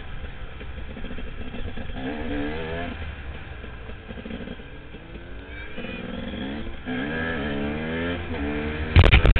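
Off-road enduro motorcycle engine heard from on the bike, pulling hard several times with its pitch rising as it accelerates and dropping at each gear change. A few loud knocks near the end.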